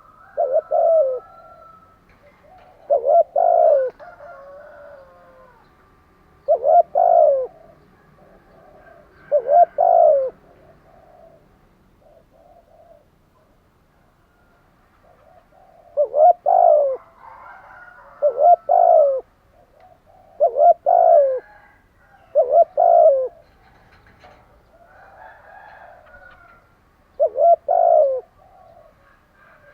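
Spotted dove cooing: short two- to three-note coo phrases repeated every two to three seconds, with a pause of about five seconds in the middle.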